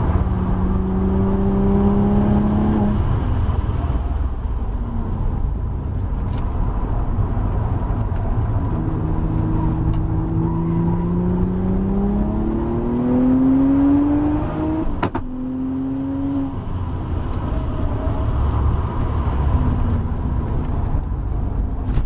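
Audi B5 RS4's 2.7-litre twin-turbo V6, heard from inside the cabin on track: the engine note climbs under throttle, then falls away as the driver lifts for a corner. About nine seconds in it climbs again for several seconds before dropping off at a sharp click about fifteen seconds in, over a constant low rumble of road and wind noise.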